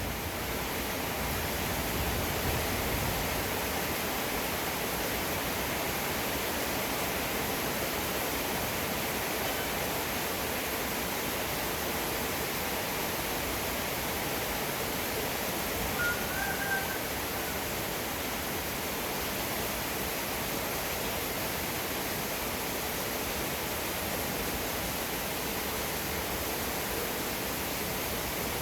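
Steady heavy rain falling, an even hiss. A low rumble of thunder dies away in the first couple of seconds, and a brief faint chirp sounds about halfway through.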